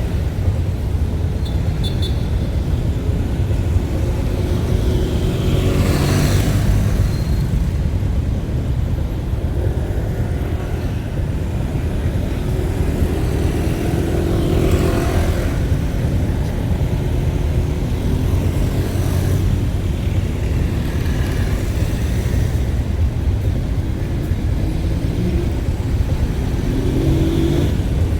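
Road vehicle noise: a steady low engine and road rumble, with vehicles swelling past about three times.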